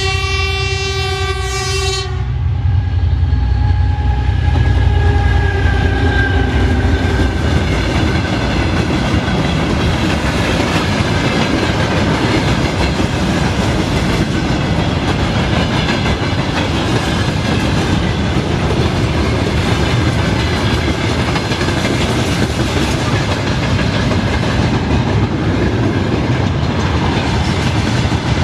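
A passing train sounds its horn, one held blast that stops about two seconds in. Then the train's wheels rumble and clack steadily over the rail joints.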